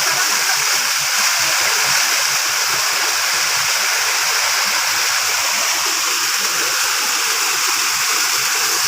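Steady rush of a waterfall and its stream of water running over rocks, close by and continuous.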